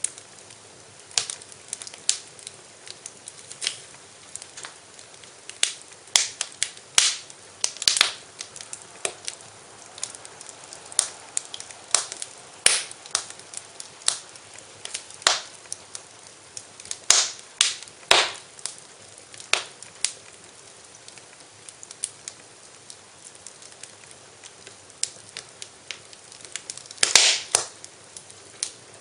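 Wood fire crackling in a fireplace: irregular sharp pops and snaps over a faint steady hiss, with a quick run of pops near the end.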